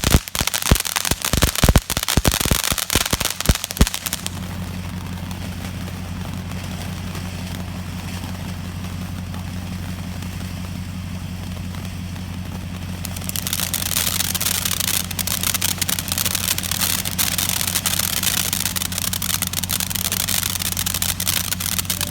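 Firework fountain crackling with dense rapid pops for about four seconds, then spraying with a steady hiss that grows louder about thirteen seconds in. A low steady hum runs underneath.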